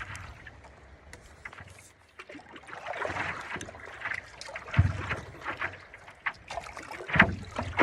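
Stand-up paddle strokes splashing in choppy water, with a few dull knocks about five and seven seconds in.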